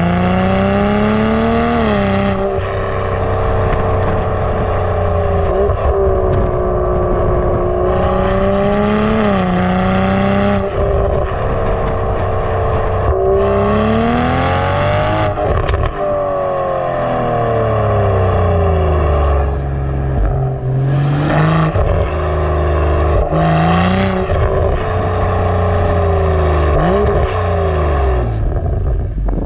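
BMW M340i's turbocharged straight-six breathing through a Fi full exhaust and 200-cell downpipe, revs climbing and dropping sharply several times as at gear changes, then falling away and climbing again near the end.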